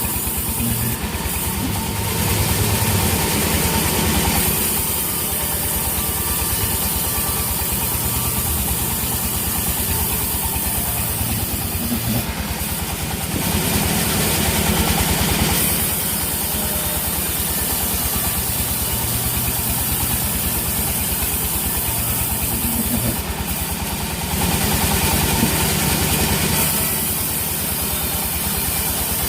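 Sawmill machinery with an engine running steadily. Three times, roughly ten seconds apart, it turns louder and hissier for about three seconds.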